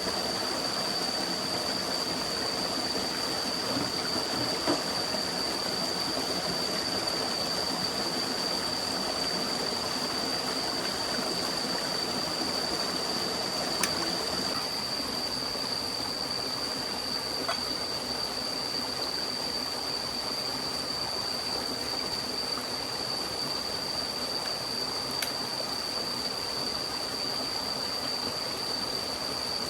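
A forest stream running steadily, with a constant high-pitched whine over the water and a few faint clicks.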